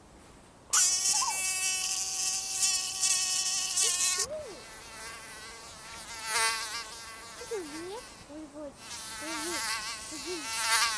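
Mosquito whining in flight: a high buzzing drone that starts abruptly about a second in, holds steady and cuts off after about three seconds, then swells back twice more, wavering in pitch.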